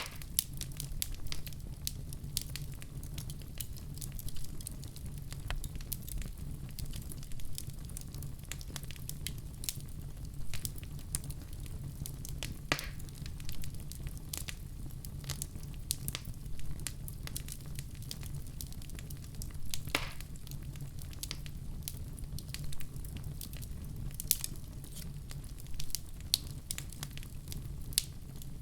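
Wood fire crackling in a fireplace: frequent irregular snaps and pops over a steady low rumble of the flames, with two louder pops, one just under halfway through and one about two-thirds of the way in.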